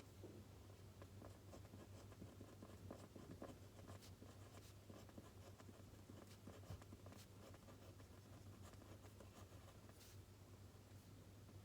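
Faint scratching and small taps of a pen writing on paper, irregular throughout, over a low steady hum.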